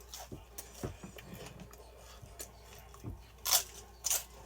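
A person chewing and eating close to the microphone: a run of small wet mouth clicks, with two louder crunching noises in the second half.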